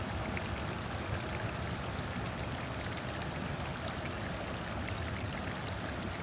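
Water of a stream or river flowing steadily, with faint scattered splashes over the rushing.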